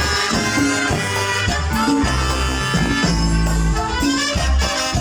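Live tropical dance band playing an instrumental passage, with brass, bass and hand percussion.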